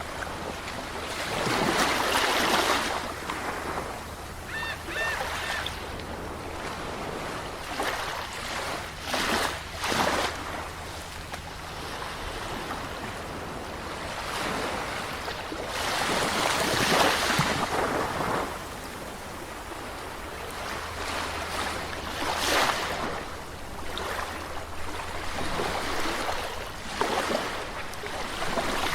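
Sea waves breaking and washing onto a shore in slow surges, the largest about two seconds in and again around seventeen seconds, with smaller splashes between. A brief high call of a few short notes sounds faintly about five seconds in.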